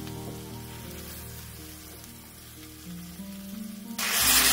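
Background music with held notes, then about four seconds in a loud hissing sizzle starts as broth is poured into the hot pot of frying chicken gizzards and tomato.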